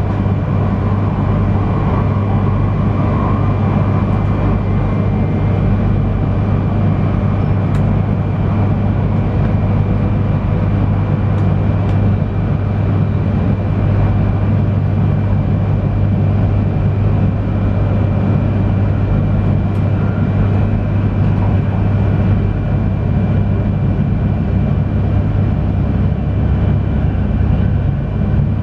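Cabin running noise of an E3 series Shinkansen at speed: a steady deep rumble with a thin, steady high whine over it.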